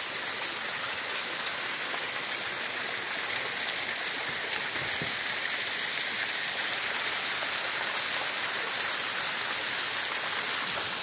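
Steady splashing of a small mountain waterfall, water falling over rock without a break.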